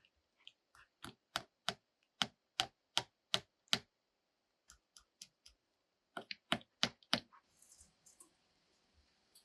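A run of about eight sharp taps, about three a second, then a pause and a quicker run of four more.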